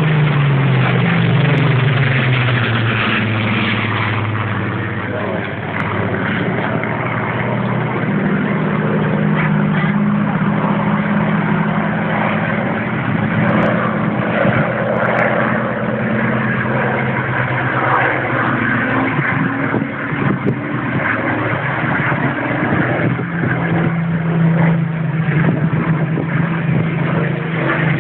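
Aircraft engine droning during a low fly-by, its pitch dropping over the first couple of seconds as it passes, then running on as a steady drone.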